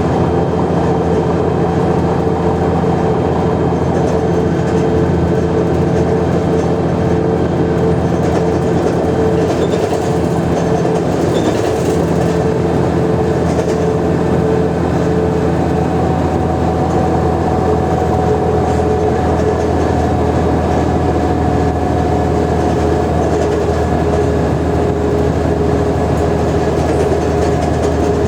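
Mercedes-Benz O345G articulated bus running steadily under way: a constant drone with a steady whine over it, the pitch holding level throughout.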